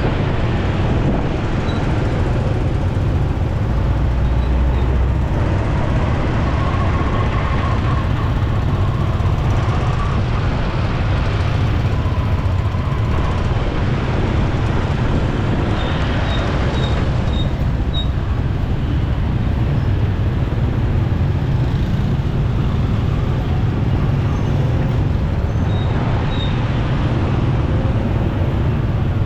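Riding a motorcycle through city traffic: a steady, loud rumble of the bike's engine and road noise, with the surrounding traffic mixed in.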